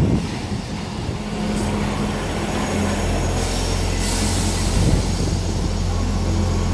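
Class 158 diesel multiple unit standing at the platform with its diesel engines running, a steady low drone that grows stronger about three seconds in. A hiss of air joins it about a second later.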